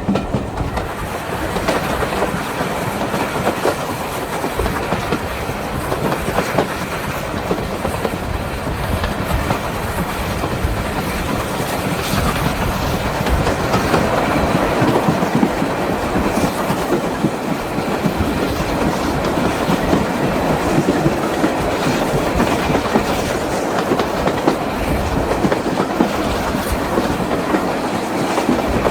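Steam-hauled train of six carriages running along the line, its wheels clicking over the rail joints, growing a little louder from about twelve seconds in.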